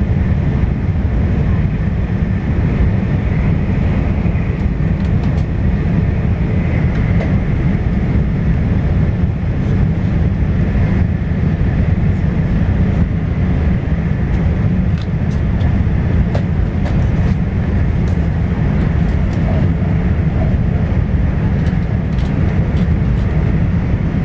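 Cabin running noise of an E4 series double-deck Shinkansen heard from the upper deck: a steady low rumble of wheels on rail and rushing air, with a few faint ticks.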